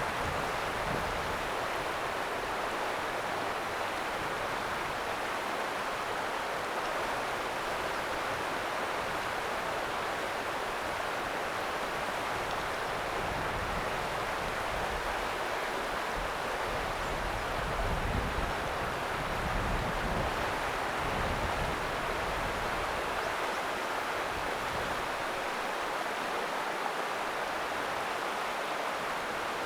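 River water rushing steadily over rocks, an even hiss without let-up, with a few low rumbles about two-thirds of the way in.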